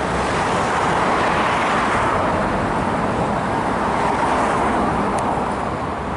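Steady road traffic noise: a continuous rush of passing cars' tyres and engines.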